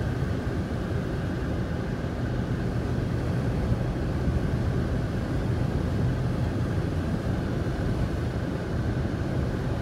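Vehicle driving on a snow-covered highway: a steady low drone of engine and tyre noise, ending abruptly.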